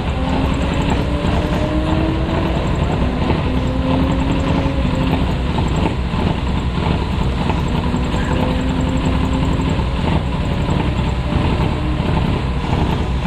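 Rally car engine running hard, its pitch climbing in several stretches with breaks between them as it shifts gears, over a dense steady rumble.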